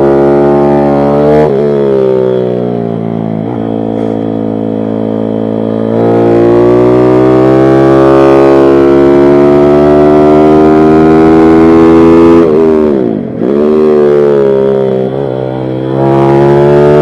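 Pit bike's small single-cylinder engine running hard at high revs. The pitch dips briefly about a second and a half in and eases off for a few seconds, holds steady in the middle, then drops sharply and climbs again about thirteen seconds in.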